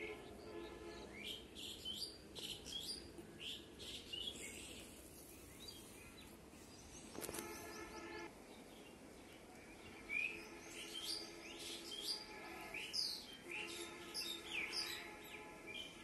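Small birds chirping and calling in quick short notes, busiest in the first few seconds and again from about ten seconds in, over a faint steady drone.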